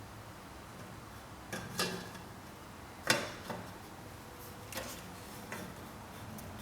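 Several sharp clicks and light knocks at irregular intervals, the loudest about three seconds in, over a faint steady low hum.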